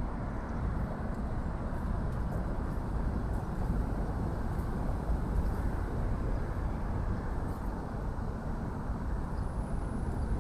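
Steady traffic noise from a busy road, an even rumble with no single vehicle standing out.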